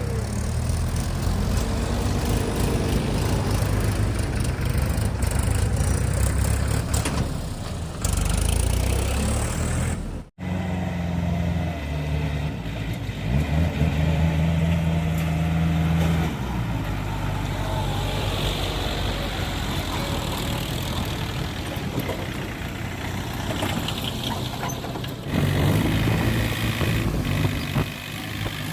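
Tractor diesel engines running, their pitch rising and falling as they are revved. The sound breaks off sharply about ten seconds in and changes again several times.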